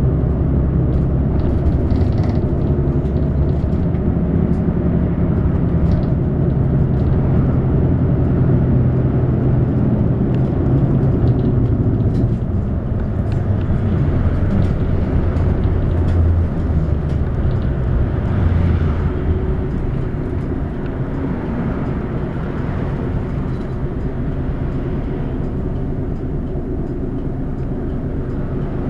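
City bus under way, heard from inside: the engine drones low under steady road noise, with light rattles now and then. It gets somewhat quieter about twenty seconds in.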